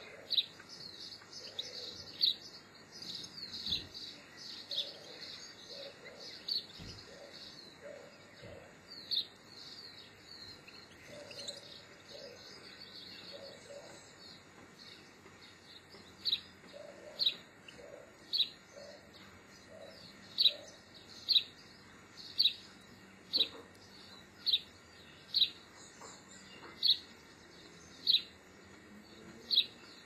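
Small garden birds calling: a run of high chirps through the first half, then one bird repeating a sharp, high single call note about once a second from about halfway in. Softer, lower notes come in short groups underneath during the first half.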